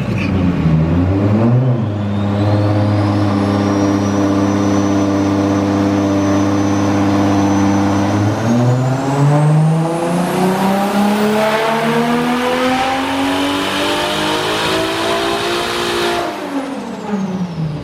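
Turbocharged 2JZ inline-six with a 3582 turbo doing a dyno pull. It holds steady for several seconds, then revs up smoothly for about eight seconds while a high turbo whistle climbs above the engine note. Near the end the throttle closes and the revs fall away.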